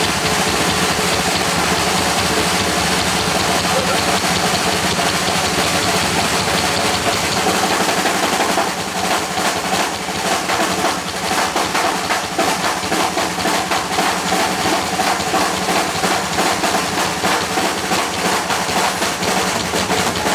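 Heavy metal band playing live, loud and distorted: a sustained wall of electric guitar noise, with rapid drum hits coming in about eight and a half seconds in.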